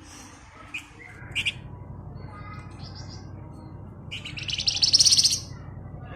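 A Javan fulvetta (wergan Jawa) gives a few short high calls, then, about four seconds in, a loud rapid rattling trill lasting over a second. A low steady hum runs underneath.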